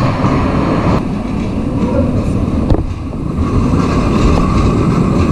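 Tram running past on a city street: a loud, steady rumble of wheels and motor.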